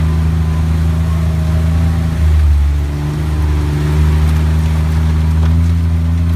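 Car engine running steadily while driving, with a low drone that swells briefly a couple of seconds in and then eases off.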